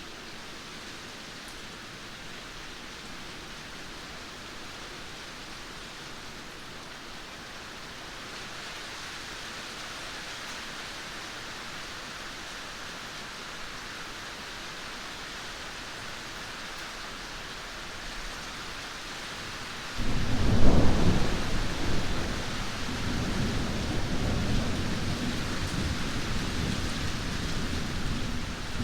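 Steady rain hiss that slowly grows heavier, then about two-thirds of the way in a sudden loud clap of thunder that rumbles on to the end.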